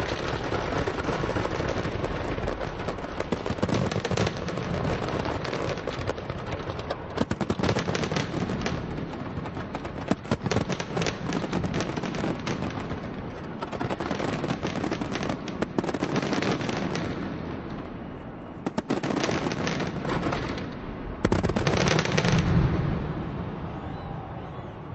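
A large fireworks display: a dense, rapid barrage of bangs and crackles from aerial shells, coming in waves, with loud clusters near the end before it eases off.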